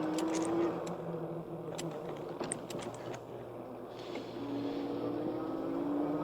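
Electric bike motor whining under power, its pitch rising as the bike speeds up, then fading and rising again near the end, with scattered light ticks over tyre and wind noise.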